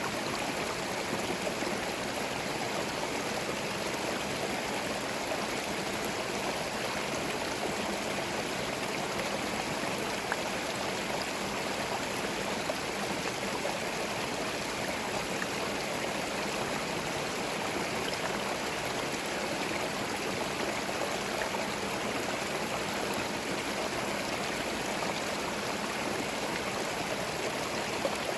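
Forest stream flowing over stones, a steady even rush of water with small gurgles.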